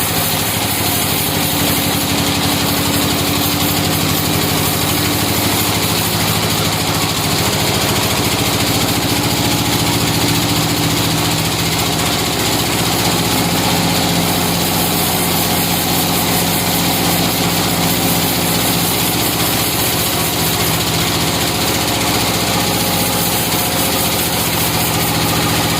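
A motor-driven sawmill's engine running steadily, its pitch shifting a little partway through.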